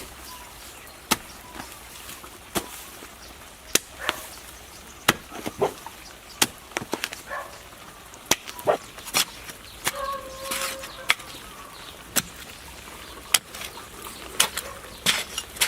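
Digging a hole in soil by hand: a tool strikes the ground again and again at an uneven pace, about once a second.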